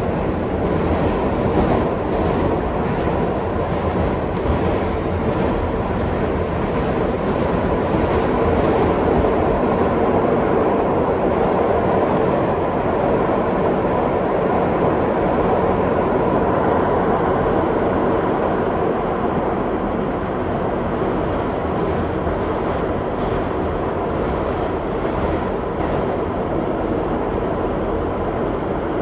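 Kawasaki R62 subway car running along the track, heard from on board: a steady rumble of wheels on rail with scattered faint clicks.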